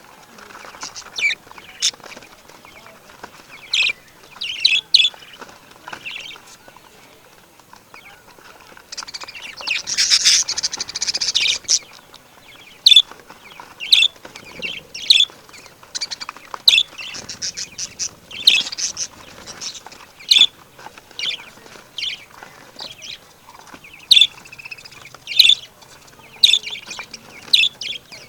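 Birds chirping and calling in many short, sharp high notes, coming more thickly in the second half, with a longer harsh, rasping burst around ten seconds in.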